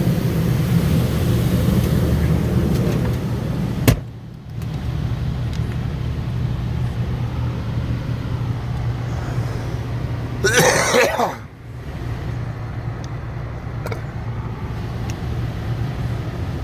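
Automatic car wash heard from inside the car's cabin: a steady low hum from the wash equipment and the idling car. There is a sharp click about four seconds in and a brief, loud, wavering sound about ten and a half seconds in.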